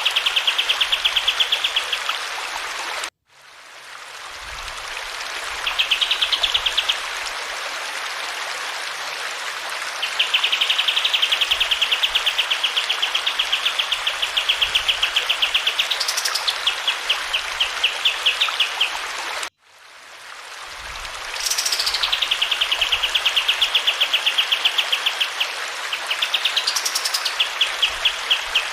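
Kapas tembak songbird singing long, fast trills, each held for several seconds, with a rising whistle twice near the middle and end, over a steady rush of running water. The whole track cuts out abruptly twice and fades back in.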